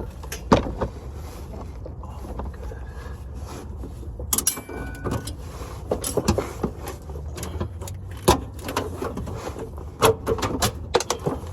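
Hand tools working on a transmission's bolts: scattered clicks and knocks, one with a brief ringing tone about four and a half seconds in, over a steady low rumble.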